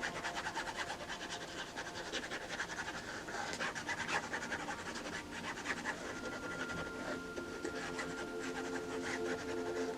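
Pen tip scratching on paper in many quick short strokes, as in hand-drawing or writing in a journal.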